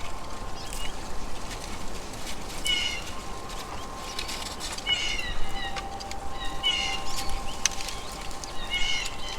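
A short, mewing animal call repeated four times, about two seconds apart, each call brief and high-pitched.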